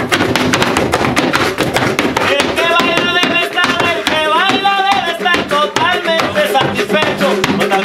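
Latin American music with zapateado footwork: rapid, dense shoe taps and stamps in a driving rhythm. About two and a half seconds in, a gliding melody, sung or played, joins over the taps.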